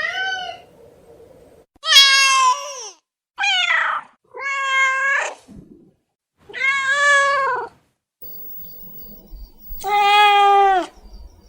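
Domestic cat meowing, about six separate meows of varying pitch, each lasting about half a second to a second, with silent gaps between them.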